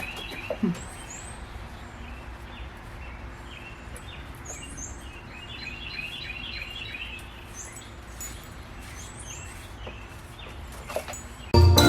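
Small songbirds chirping in short repeated bursts, with some high, quick down-slurred notes, over steady outdoor background noise. Loud music starts suddenly near the end.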